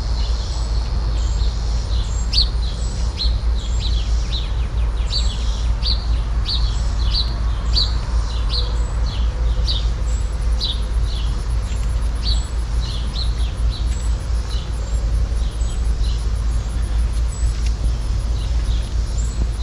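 A bird calling over and over in short high chirps, about two a second, over a steady low rumble.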